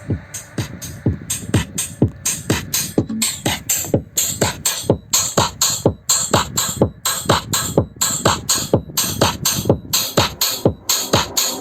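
Electronic dance music played loud through a JBL portable Bluetooth speaker: a kick drum about twice a second, each kick dropping in pitch, with crisp hi-hats over it.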